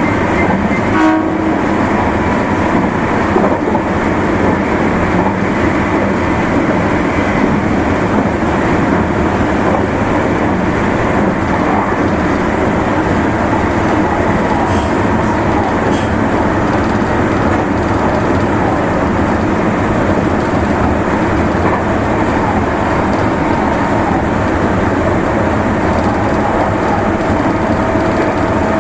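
Meitetsu Nagoya Main Line limited express electric train running along the line, a steady, continuous rumble of wheels on rail.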